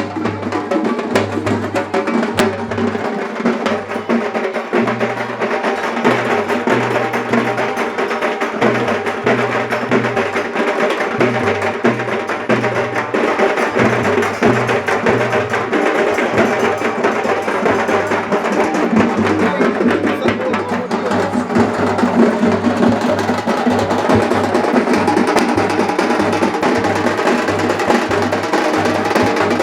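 Music with continuous, busy drumming and percussion over a pulsing bass.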